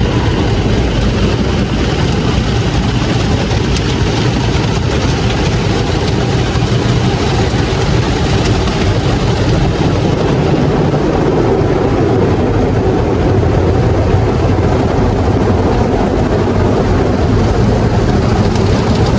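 Steady, loud mechanical rumble with a continuous rushing hiss, unchanging throughout.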